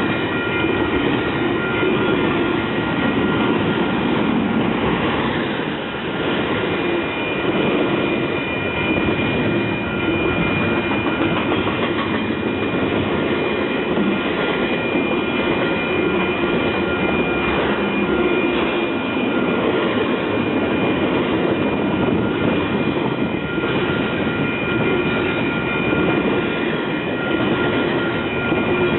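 Train cars rolling past close by, a steady rumble of wheels on rail with a few faint steady high tones above it.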